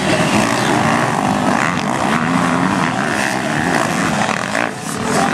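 Motocross bike engines revving up and down as the bikes race around the track, the pitch rising and falling with each throttle change; the sound dips briefly near the end.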